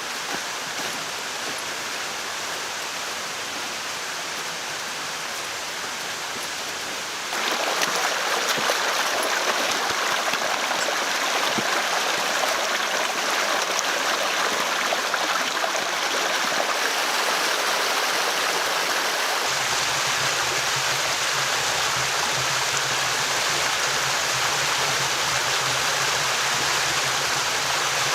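Running water of a stream, a steady rushing that gets louder about a quarter of the way in. A faint low steady hum joins in about two-thirds of the way through.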